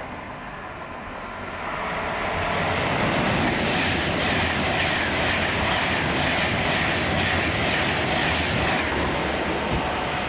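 Class 390 Pendolino electric train passing through a station at speed, not stopping: a rushing wheel-and-rail noise builds about two seconds in, stays loud, and begins to fade near the end.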